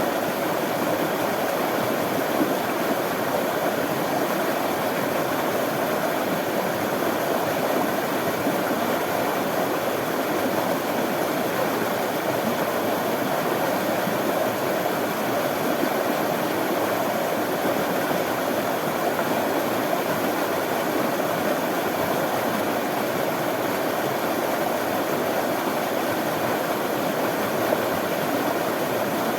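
Running water of a stream flowing steadily, an even rushing sound with no breaks or changes.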